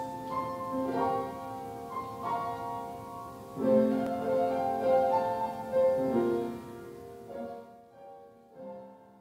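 Piano music: slow, sustained chords, quieter and fading toward the end.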